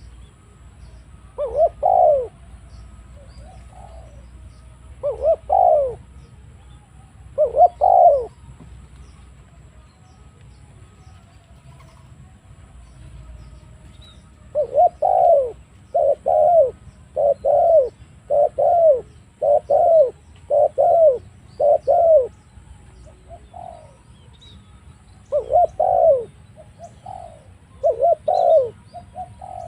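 Spotted doves cooing. The coos come as separate notes at first, then a quick run of about eight, then a few more near the end.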